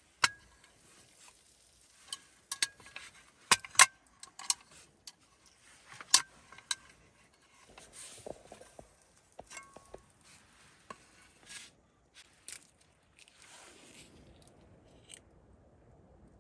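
Irregular sharp clinks and knocks from hard objects being handled, some with a brief ringing tone, the loudest cluster about four seconds in, with quieter rustling between.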